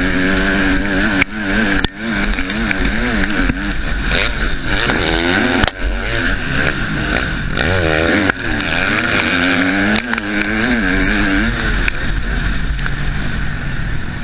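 Husqvarna motocross bike engine revving hard and falling back over and over, its pitch rising and dropping with throttle and gear changes and cutting briefly a few times, heard from the rider's helmet.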